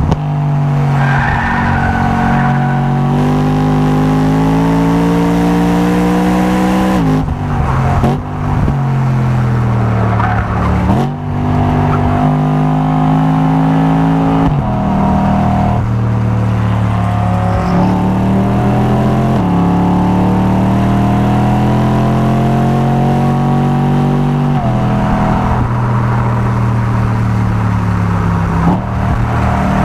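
A car engine driven hard on a race circuit. Its pitch climbs steadily through each gear, then drops suddenly at the upshifts and under braking, about eight times.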